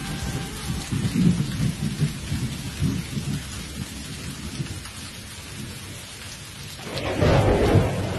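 Thunder rumbling over steady rain: uneven rolls in the first seconds, easing off mid-way, then a louder rumble swelling up about seven seconds in.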